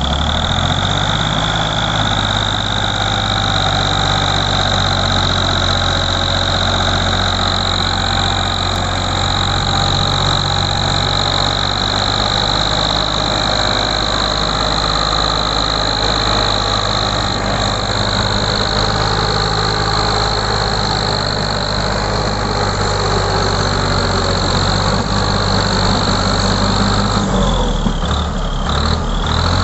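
Farm tractor's diesel engine running steadily under load, pulling a loaded sugarcane trolley, with a steady high whine over it. The engine note shifts briefly near the end.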